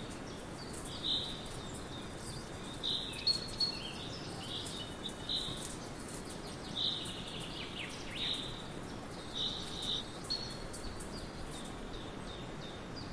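Birds chirping, short high calls every second or two, over a steady outdoor background hiss.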